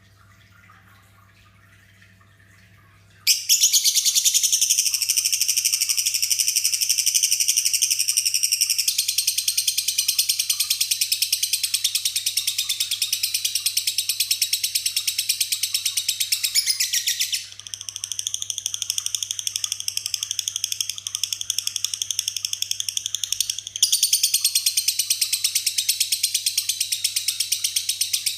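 Lovebird 'ngekek' song: a long, unbroken run of very rapid, high-pitched chattering notes. It starts suddenly about three seconds in and keeps going, dropping somewhat in level for a few seconds past the middle before picking up again.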